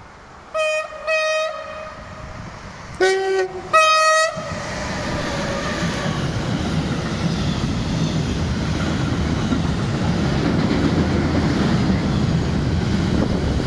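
Electric freight locomotive's horn sounding four short blasts, the third one lower in pitch. Then the steady rumble and clatter of its train of empty car-transporter wagons rolling past, building over a few seconds and staying loud.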